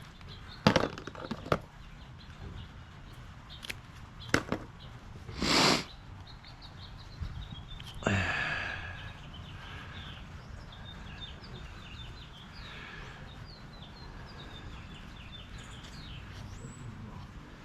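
Trimming a dried chicken hide: a few sharp clicks of cutting and handling, a brief rustle about five and a half seconds in, and a louder scrape about eight seconds in, followed by faint chirps over a low steady hum.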